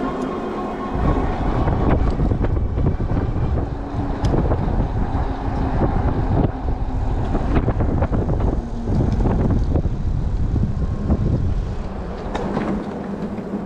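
Strong headwind buffeting the microphone of a moving electric bike: a loud, deep rumble of wind that swells and drops, with the faint steady whine of the rear hub motor at times.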